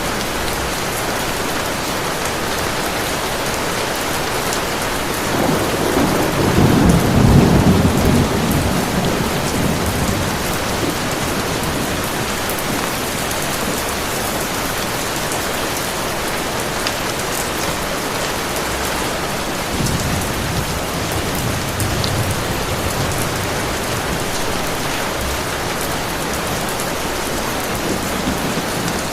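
Steady heavy rain, with a low rumble of thunder swelling about six seconds in and dying away a few seconds later, and a fainter rumble about twenty seconds in.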